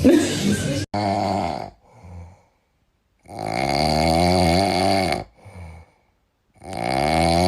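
Snoring: three long, wavering, rattling snores about three seconds apart, after a short noisy sound that cuts off sharply about a second in.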